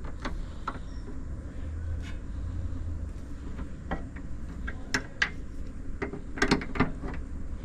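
Scattered clicks and knocks of hand wrenches working the nut and bolt of a car's rear sway bar stabilizer link, with a cluster of quick knocks near the end, over a low steady hum.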